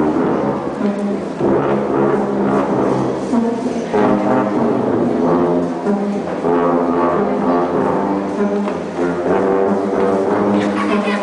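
Marching band tubas and low brass playing together, loud phrases of held notes and chords.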